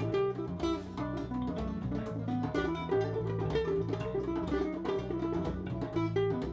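Live acoustic band music: a guitar picks quick notes over a sustained bass line.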